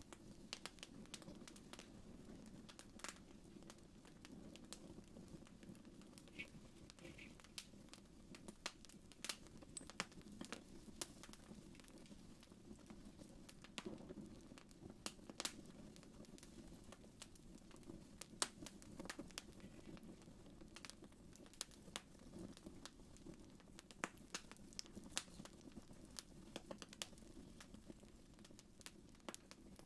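Wood fire crackling quietly in a fireplace: irregular sharp pops and snaps over a low, steady rumble.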